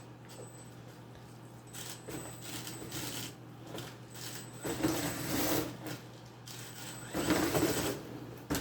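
Venom Mini Giant RC monster truck's brushless motor and gear drivetrain run in three short bursts with a rattling, clicking noise. The driver hears the sound come once each time a wheel goes around and wonders whether a gear is broken.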